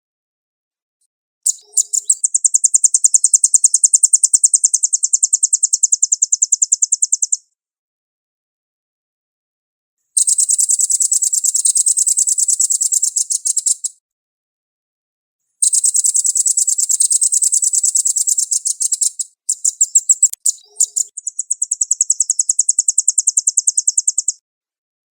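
Velvet-fronted nuthatch (the red-billed 'rambatan paruh merah') singing long, fast, high-pitched trills of tightly packed repeated notes. There are four runs of a few seconds each, with silent gaps between them: the rapid, tight 'speed rapet' song used to tutor caged songbirds.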